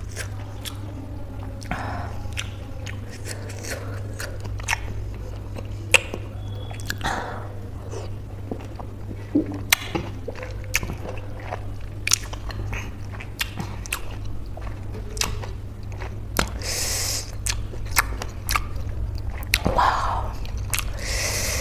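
Close-miked wet chewing of peeled orange segments coated in chili salt, with many sharp mouth clicks and smacks. Two short hissing breaths come near the end, over a steady low hum.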